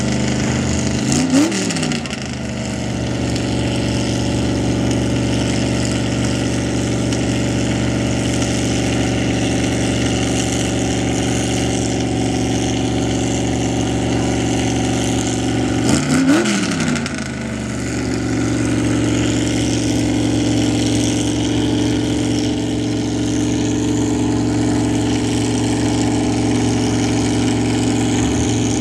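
Mud truck engine idling steadily, blipped twice in quick revs that rise and fall back, about a second in and again about sixteen seconds in. The truck's throttle is sticking.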